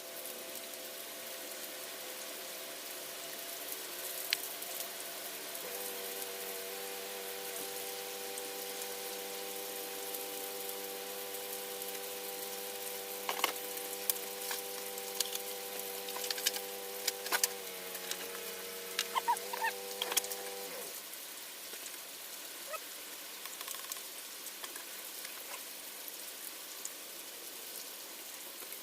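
A steady mechanical hum that shifts slightly twice and stops about two-thirds of the way through, with scattered light clicks and knocks over a constant hiss.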